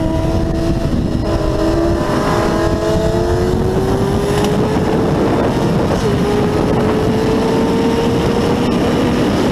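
A vehicle engine pulling hard at speed, its pitch climbing slowly and steadily with a brief dip about six seconds in, under heavy wind rush on the microphone.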